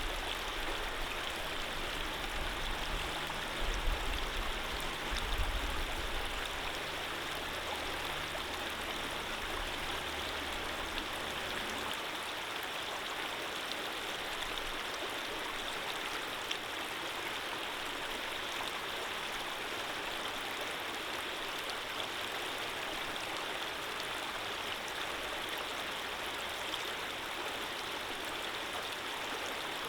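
Steady rush of a flowing stream, running water with no pauses. A low rumble sits under it for roughly the first twelve seconds, swelling briefly around four and five seconds in, then stops.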